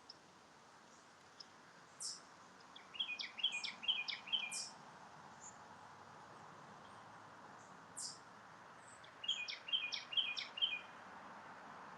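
Songbirds singing outdoors: a quick phrase of four repeated notes sung twice, about six seconds apart, and single sharp high chirps. Underneath is a steady hiss of distant traffic.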